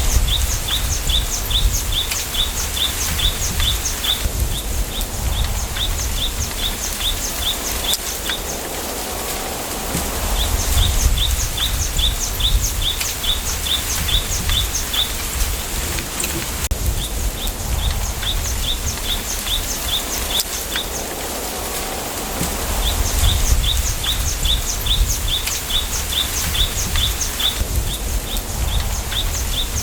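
Wind in a bamboo grove: a steady rustling hiss, with gusts that rumble on the microphone. A small bird repeats quick runs of sharp chirps, several a second, that stop and start every few seconds.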